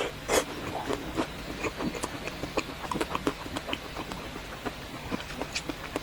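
Close-miked eating of a chocolate-coated ice cream bar: irregular crisp crunches and mouth clicks as the chocolate shell is bitten and chewed, with a louder bite about half a second in.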